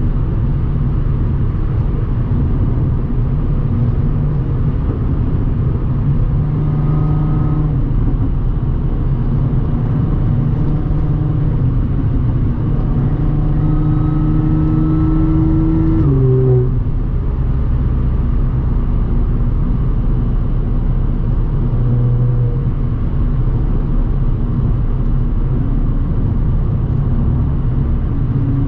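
Audi S4 B8.5's supercharged 3.0-litre V6 with AWE exhaust and test pipes, running steadily at road speed. Its pitch climbs slowly twice, then drops suddenly about sixteen seconds in.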